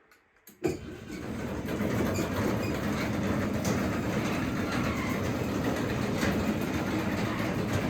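Craftsman 3/4 hp DC belt-drive garage door opener starting with a click and then running steadily as it closes the door, the motor and belt humming under the rumble of the door rolling down its tracks.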